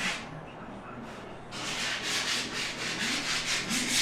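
Hand sanding with rapid back-and-forth strokes, about four a second, beginning about a second and a half in: a part being prepared for paint.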